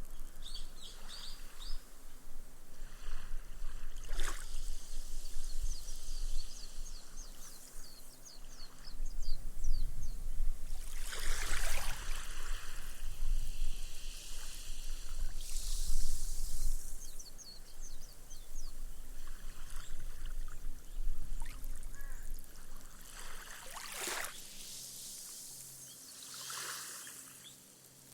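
Small, slow waves washing up a sandy beach and soaking into the sand, with the foam fizzing and crackling as it drains away. Several gentle surges swell and fade, and the sound settles to a soft hiss near the end.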